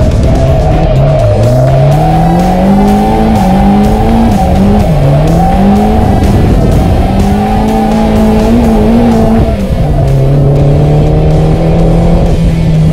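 Turbocharged SR20DET four-cylinder of a drifting Nissan 240SX, heard from inside the cabin, revving up and down repeatedly with throttle changes. About ten seconds in, it settles to a steadier, lower drone.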